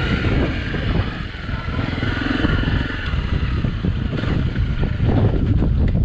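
Dirt-bike engine running with the throttle rising and falling, over a rough, uneven rumble.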